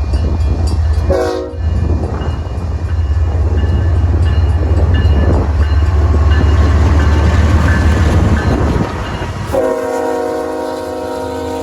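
BNSF manifest freight train's diesel locomotives rumbling at low speed, with a brief horn blip about a second in. Near the end the locomotive's air horn starts a long, steady chord.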